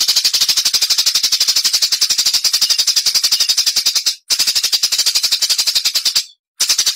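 A songbird's rapid-fire, machine-gun-like song (the 'tembakan' style prized in bird contests): a fast, even string of sharp high notes, about a dozen a second, with a brief break about four seconds in and a longer one just after six seconds.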